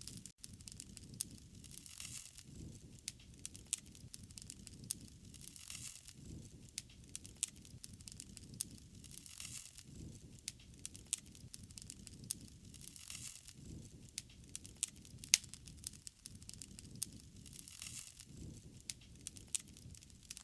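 Wood fire burning, crackling with frequent sharp pops of burning wood. A soft, low rush swells every few seconds.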